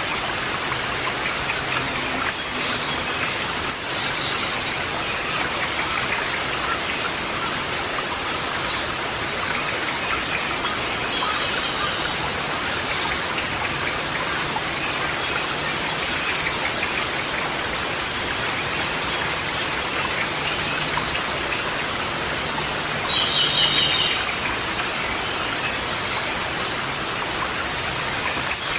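Wild birds calling over a steady rushing hiss: a dozen or so short, high, falling calls and a few quick trilled phrases scattered through.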